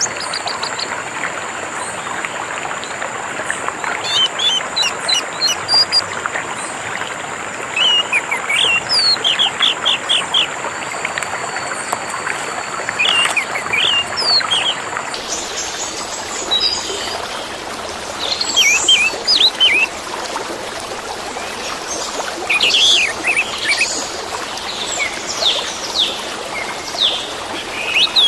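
Orange-headed thrush (anis merah) singing in clusters of quick chirps and whistled notes over a steady trickle of running water. A thin steady high tone in the background stops about halfway through.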